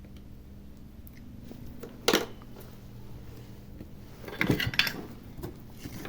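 Small hard tools or parts set down and handled on a workbench: one sharp knock about two seconds in, then a short rattle of clicks and knocks a little past the middle, over a steady low hum.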